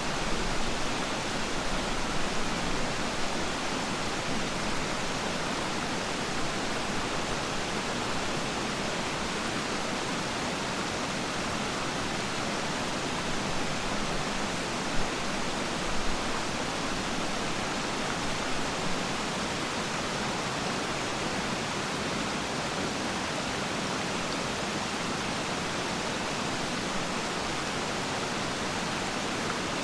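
Waterfall pouring steadily, a constant rushing of falling water, with a couple of brief splashy peaks about halfway through.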